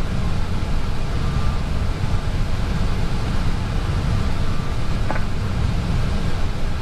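Steady low rumble and hiss of an Airbus A320 cockpit on the ground during taxi, with a single short click about five seconds in.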